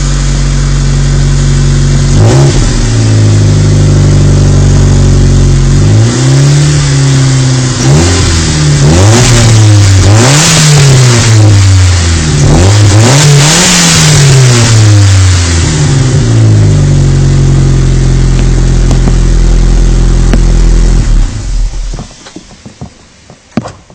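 Mitsubishi Colt Ralliart Version R's turbocharged 1.5-litre four-cylinder engine heard through its stock muffler: idling, blipped once, then revved up and down about five times in a row before settling back to idle. The engine is switched off near the end.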